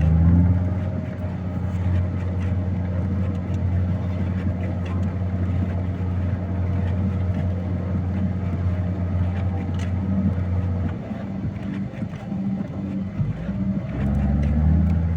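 Heavy vehicle's engine running steadily under load while it breaks a road through snowdrifts. Its note falls away about eleven seconds in and picks up strongly again near the end.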